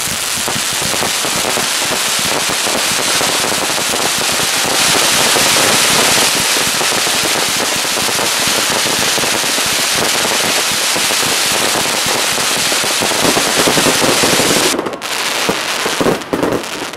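Aerial fireworks crackling: a dense, continuous rattle of countless tiny reports that breaks off about fifteen seconds in, followed by a few scattered pops.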